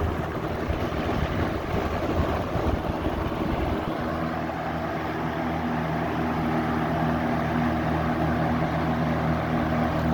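Lakewood box fan running on its high setting: a loud, steady rush of air from the blades over the electric motor's hum. A low rumble under it eases about four seconds in.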